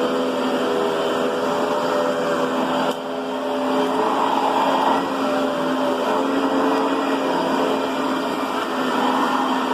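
Riccar Brilliance upright vacuum cleaner running steadily: a motor hum with a whine over rushing air, its pitch wavering slightly as it is worked over the floor. There is a brief dip in level about three seconds in.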